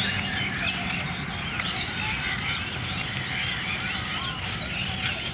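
Many birds chirping and calling at once, a dense, unbroken chatter of short rising and falling notes, typical of a flock. A steady low rumble lies underneath.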